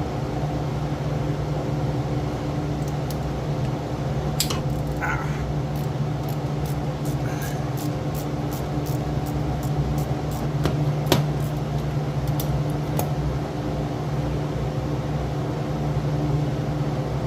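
Steady machine hum, like a shop fan, with scattered sharp metallic clicks and clinks of hand tools working the exhaust manifold bolts loose; the two loudest clinks come about four seconds in and about eleven seconds in.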